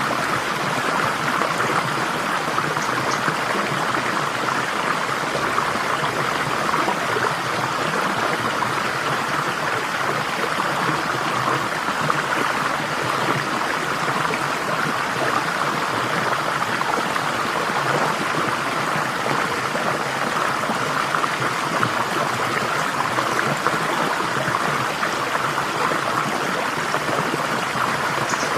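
Water flowing steadily in a stream, an even, unbroken rush.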